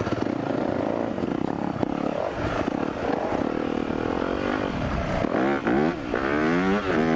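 Four-stroke dirt bike engine under way on a trail, heard with wind noise. About five seconds in, the revs climb and drop several times as the rider works the throttle and gears.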